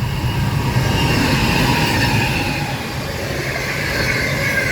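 A train running along its track: a steady rumble and clatter of wheels on rails, with a faint wavering squeal.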